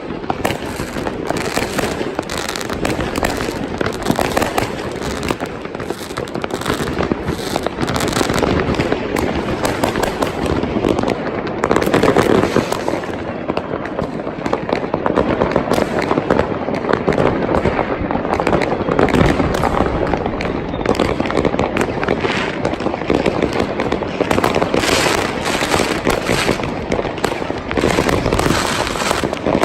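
Fireworks and firecrackers going off all around without a break, a dense crackle of many overlapping bangs and pops.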